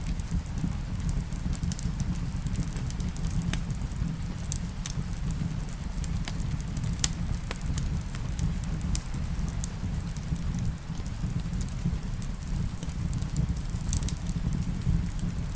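Wood fire in a fireplace crackling, with irregular sharp pops a few times a second over a steady low rush of rain.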